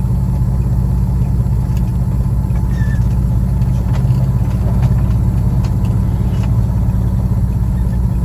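Peterbilt semi-truck's diesel engine running at low speed as the truck is eased out of a tight spot: a steady low drone, with a few faint clicks over it.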